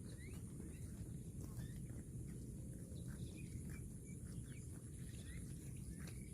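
Outdoor rural ambience: scattered short bird chirps throughout, over a steady high-pitched insect drone and a low rumble.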